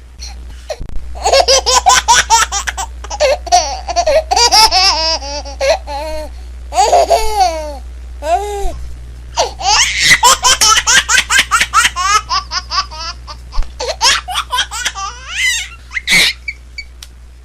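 A young child laughing hard in long runs of rapid, high-pitched laughs, with a short break about halfway through.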